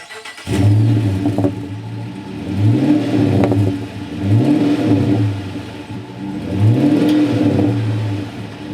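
Chrysler 300C's 5.7 Hemi V8 exhaust: the engine starts up about half a second in and settles to idle. It is then blipped three times, each rev rising and falling back.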